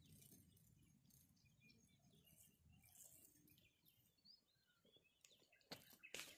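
Near silence: faint outdoor ambience with a few scattered, distant bird chirps. Near the end come a few sharp clicks.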